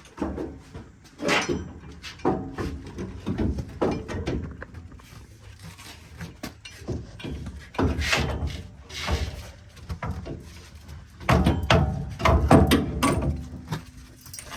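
Irregular knocks, clanks and scraping as a 2011 Chevrolet Silverado's front strut assembly is worked loose and out of the suspension after its three top bolts are removed. The loudest, densest run of knocks comes near the end.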